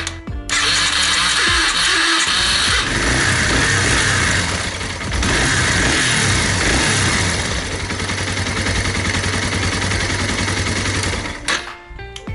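Yamaha TW225 motorcycle's electric starter motor cranking the engine with a harsh, abnormal noise, the sign of a starter motor fault. It runs in two long stretches with a short break about five seconds in.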